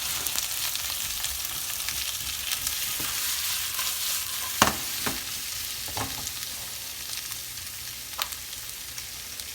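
Seasoned cube steaks sizzling in hot oil in a frying pan: a steady hiss with a few sharp pops and crackles.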